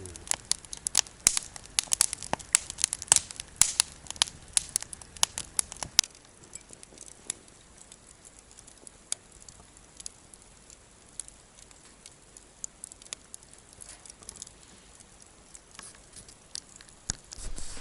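Wood campfire crackling and popping: a dense run of sharp snaps for about the first six seconds, thinning to scattered pops after that.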